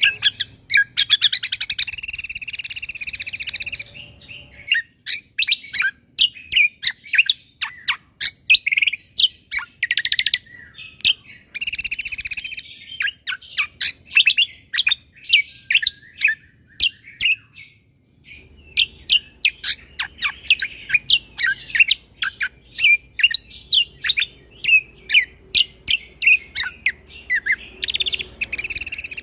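Cucak kombo (kecial kombo) songbird singing a loud, continuous song: fast buzzy trills alternate with rapid-fire strings of short, sharp whistled notes.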